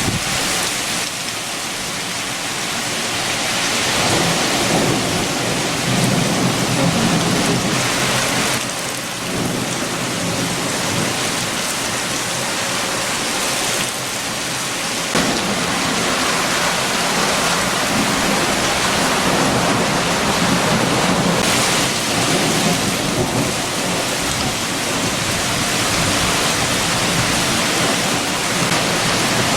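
Heavy rain falling in strong, gusting wind, with a deep rumble that swells a few seconds in and again from about halfway.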